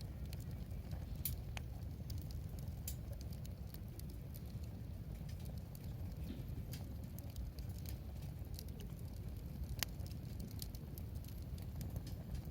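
Wood fire burning in a fire pit: scattered sharp crackles and pops from the burning wood over a steady low rumble.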